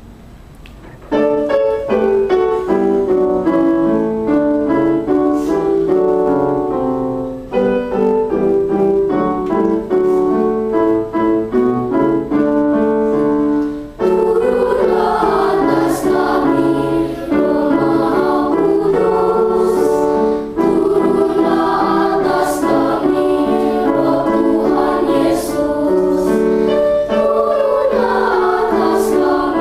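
Keyboard accompaniment plays an introduction of steady, stepping notes. About halfway through, a children's choir comes in singing a hymn over the accompaniment.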